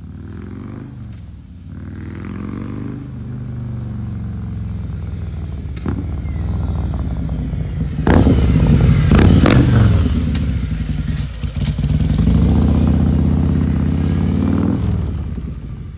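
Tuned car engine with a Woods 22XE camshaft and a D and D Billet 2-into-1 cat manifold, revving and accelerating, getting louder, with a few sharp cracks about eight to ten seconds in. The engine note falls away near the end.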